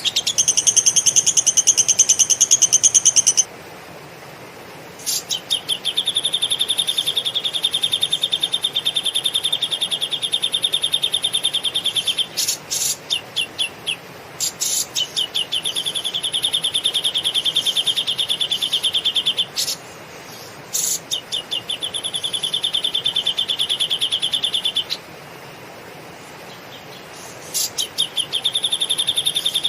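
A cage bird sings long, fast trills of repeated high notes, each run lasting several seconds with short breaks and a few stuttering notes between runs. This is the rapid, tight lovebird-style chatter ('ngekek') used as training material for songbirds.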